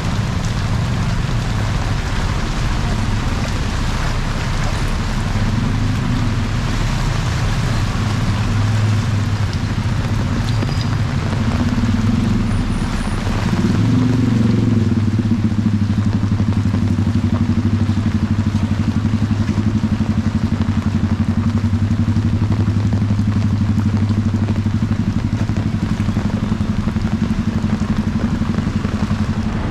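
A motor vehicle's engine running close by with a steady low hum. About twelve seconds in its pitch rises and falls, then it holds steady and louder.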